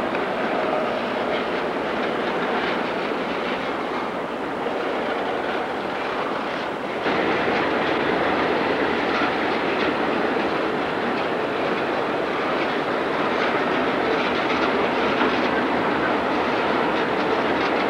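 Freight train cars rolling past, their wheels clattering over the rails as a steady, dense rumble. The noise steps up abruptly about seven seconds in.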